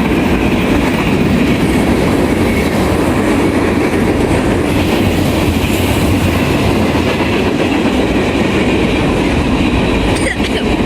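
Train passing close by: a loud, steady rumble of its wheels running on the rails.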